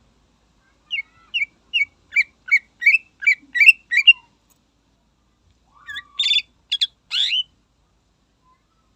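Cucak ijo (green leafbird) singing: a run of about ten short, quick whistled notes, then after a pause of a couple of seconds a few harsher, rasping notes.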